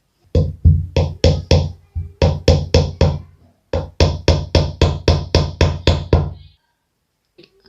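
A hammer driving a nail into a wooden stick: about twenty blows, three to four a second, in three runs with short pauses between, ending about a second before the close.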